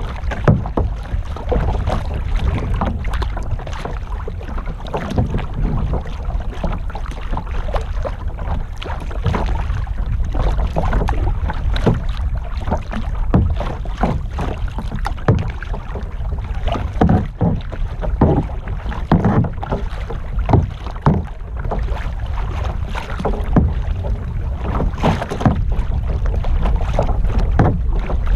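Kayak paddling: the paddle dipping and splashing in the water again and again, with water lapping against the hull and a steady low wind rumble on the microphone.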